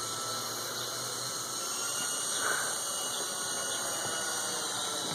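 Small RC helicopter's electric motor and rotor running in flight: a steady hiss with a faint, steady high whine.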